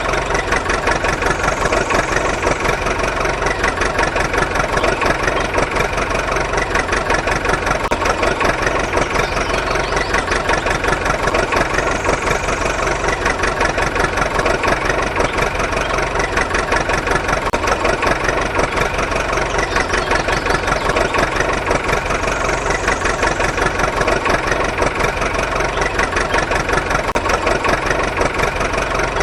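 Engine idling steadily with a fast, even chug; the same pattern comes round about every ten seconds.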